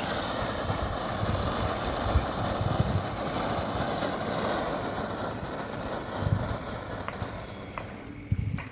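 Two small golden flower fountain fireworks spraying sparks with a steady hiss, with a few crackles. The hiss dies down over the last couple of seconds and sputters out near the end.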